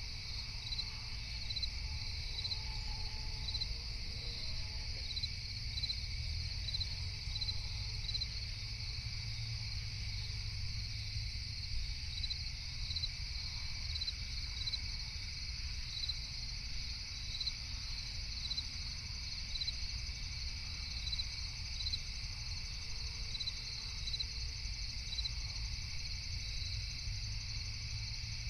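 Crickets and other night insects calling: short chirps repeated about twice a second in runs over a continuous high-pitched insect drone, with a steady low rumble underneath.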